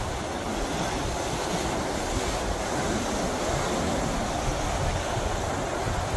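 Heavy storm-swell surf breaking and washing ashore in a steady wash of noise, with wind buffeting the microphone.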